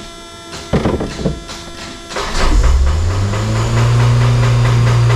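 1983 Honda Civic's 1.5L EM1 four-cylinder engine starting up: after a short burst of noise, it catches about two seconds in and its pitch climbs until it holds a steady, high idle. The idle is mighty high, which the owners put down to a faulty carburetor with stuck floats.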